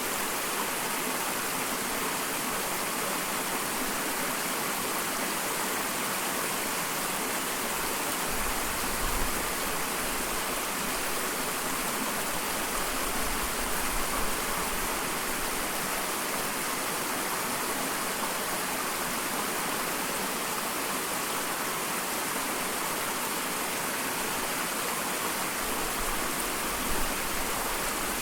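Small waterfall splashing steadily, an even rush of falling water with a few brief low swells.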